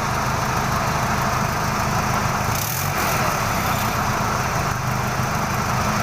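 Gasoline forklift's H-20 series engine running steadily, with a short high hiss about two and a half seconds in.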